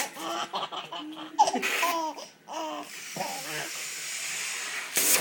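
Baby girl laughing in short, choppy bursts with a rough, gruff laugh.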